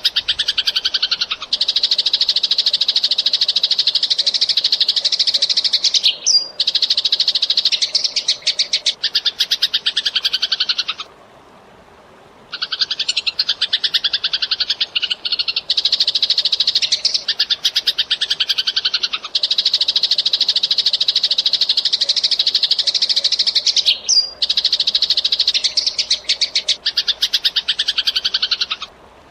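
Eurasian tree sparrow chattering in long, fast runs of rapid chirps, with a short pause near the middle.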